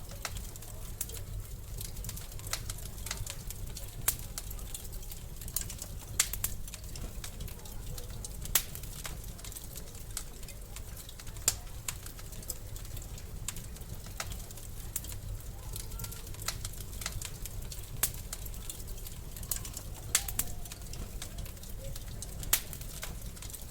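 Wood fire crackling in a fireplace: a constant scatter of small irregular pops and snaps, with a sharper, louder snap every few seconds, over a steady low rumble.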